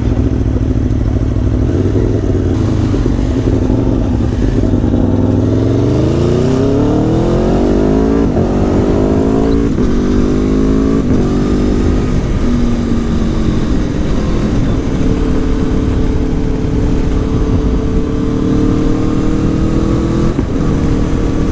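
Aprilia Tuono V4 1100 Factory's V4 engine under a hard run through the gears. Its note climbs from about six seconds in, breaking briefly at each upshift, then settles to a steady cruise.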